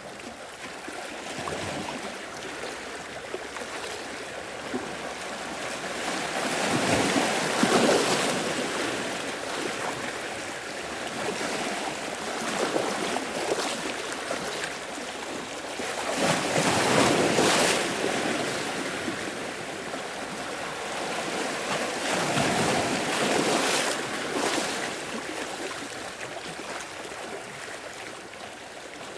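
Sea waves breaking and washing in, with three louder surges about nine seconds apart between a steady background wash.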